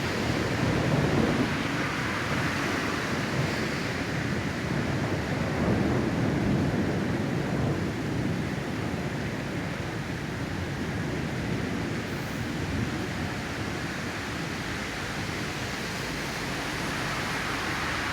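Steady rushing noise of a thunderstorm, with low rumbling swells about a second in and again around six seconds in.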